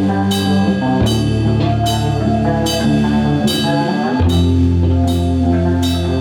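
Metal band playing live: held guitar and bass chords that change about a second in and again about four seconds in, under cymbal crashes roughly once a second.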